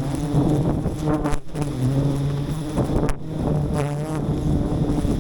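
Wild honeybees buzzing close to the microphone: a steady hum whose pitch wavers as bees fly near, around 1 and 4 seconds in.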